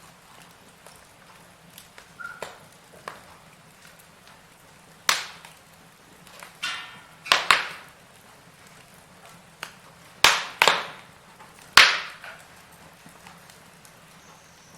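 Firewood burning in a fireplace: scattered sharp crackles and pops over a faint steady hiss, with a loud pop about five seconds in and a group of loud pops between about ten and twelve seconds.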